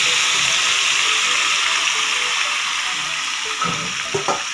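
Marinated chicken pieces sizzling in hot oil and butter in a pan, a loud, even hiss that slowly eases. A couple of light knocks near the end.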